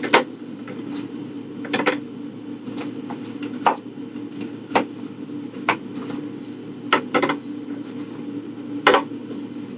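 Eggs being set one by one into a plastic egg container, each shell giving a short click against the plastic, about nine in all, roughly one a second, over a steady low hum.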